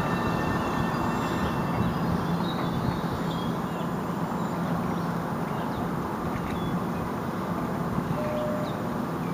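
Train running at a distance: a steady rumble with a low hum, slowly fading. A few faint bird chirps over it.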